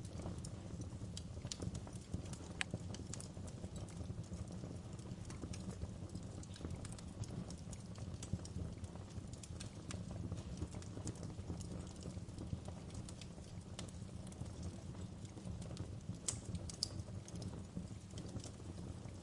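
Wood fire burning, a steady low rumble with irregular sharp crackles and pops from the burning wood, a few louder snaps together near the end.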